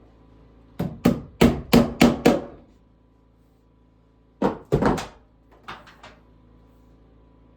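Hammer blows on wood: a quick run of about six strikes, a pause, then three more, followed by a few lighter taps.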